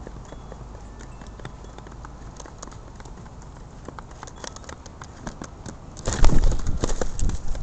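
A flock of pigeons on the ground, with many quick irregular taps, then a loud, dense flurry of sound for about a second and a half near the end.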